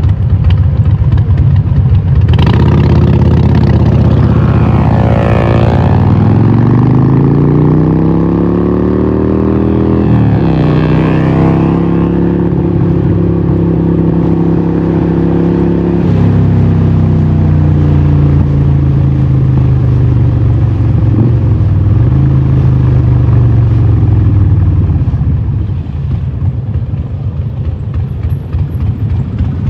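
Harley-Davidson 1200 Nightster's Evolution V-twin through a Vance & Hines exhaust, pulling hard with the pitch climbing for several seconds, then dropping suddenly about ten seconds in as it shifts up. It holds a steady note until about sixteen seconds in, then eases off with the pitch falling, and runs rougher and lower near the end.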